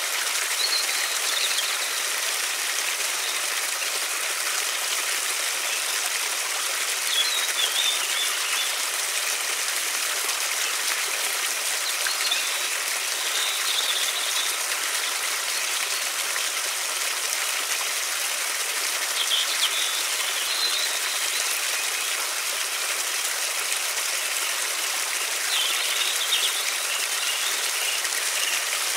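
River water flowing steadily, a constant rushing hiss. A few short, high bird chirps come through it every several seconds.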